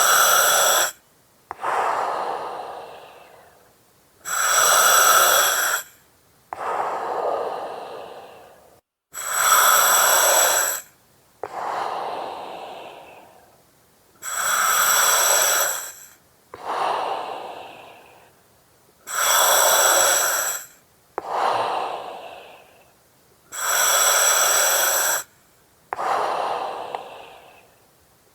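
Slow, steady breathing through an oxygen mask, about one breath cycle every five seconds. Each cycle is a loud, evenly ringing hiss that starts and stops sharply, followed by a softer breath that fades out.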